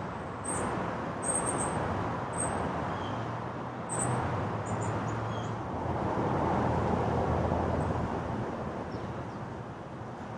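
Steady road traffic noise, swelling as a vehicle passes about two-thirds of the way through, with short high bird chirps repeated every half second to second in the first half.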